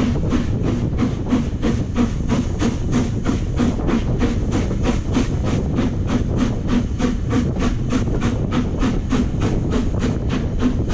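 Steam locomotive working steadily under way, its exhaust beating in an even rhythm of about three or four chuffs a second.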